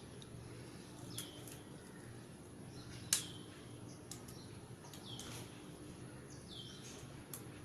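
A small bird chirping repeatedly, a short falling call about every second and a half, with a few sharp clicks in between, the loudest about three seconds in.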